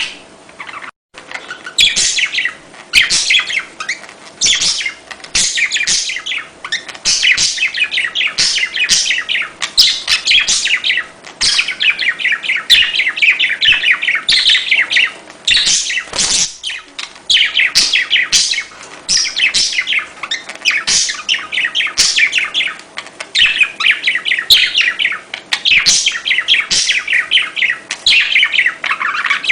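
Budgerigars chattering: fast, almost unbroken runs of high chirps and warbles in short phrases with brief pauses between them.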